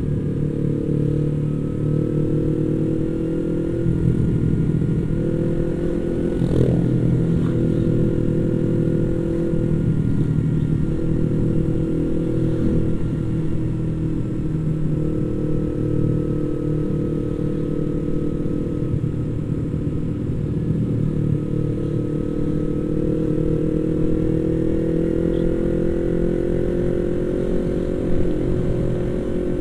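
Yamaha MT-25's parallel-twin engine running steadily while the bike cruises, its pitch holding and then rising slowly near the end.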